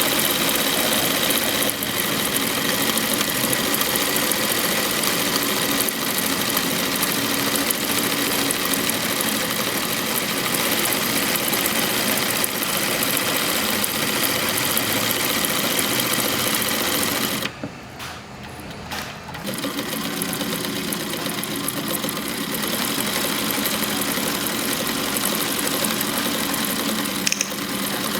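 Atlas USA AT2284 three-step zigzag industrial sewing machine running at speed, stitching steadily. It stops for about two seconds roughly two-thirds of the way through, then runs again a little quieter.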